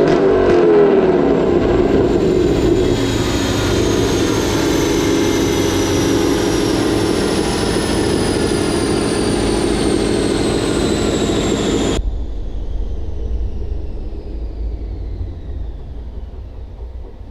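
Mustang GT's 5.0 Coyote V8 coming off a wide-open-throttle dyno pull: the revs fall away at the start, then the car's driveline and the dyno roller run down with a whine that slowly falls in pitch. About twelve seconds in the higher part of the noise cuts off suddenly and the sound fades.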